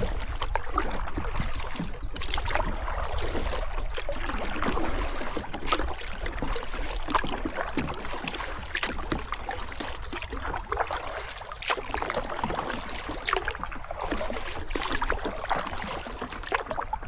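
River water trickling and splashing around a kayak, with many small drips and splashes.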